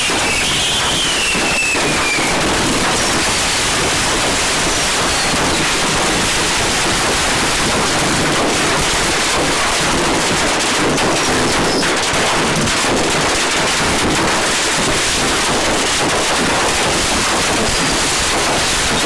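Fireworks going off in a rapid, continuous crackle of many small bangs, with a falling whistle near the start.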